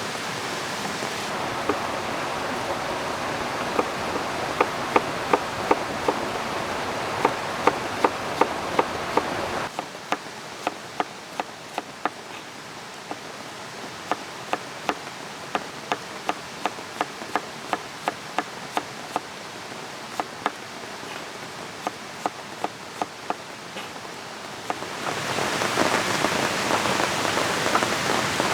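Steady rain with running water behind it, and a long run of frequent sharp ticks. The hiss drops quieter about a third of the way in and swells louder again near the end.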